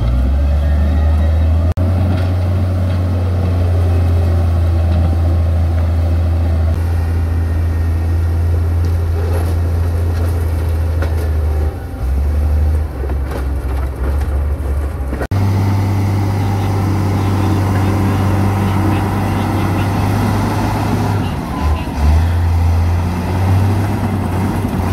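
Heavy diesel engine of earthmoving machinery running steadily with a deep, constant rumble, cutting abruptly to a similar engine sound about fifteen seconds in.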